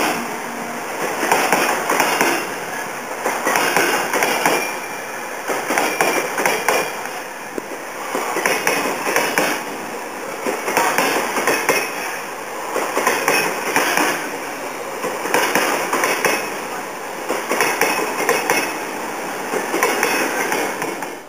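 Container freight train rolling past close by, its wagon wheels clattering in regular bursts about every one and a half seconds over a steady rumble. The sound cuts off suddenly near the end.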